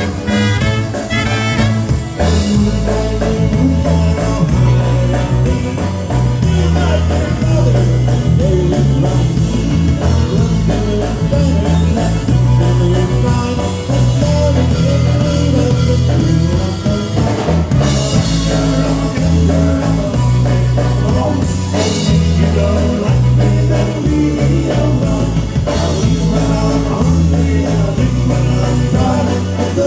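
A live polka band playing a fast oberek, with a drum kit keeping the beat under a strong, pulsing bass line.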